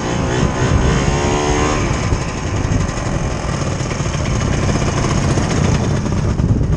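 Vintage snowmobile's two-stroke engine running steadily, rising in pitch as it revs up over the first couple of seconds.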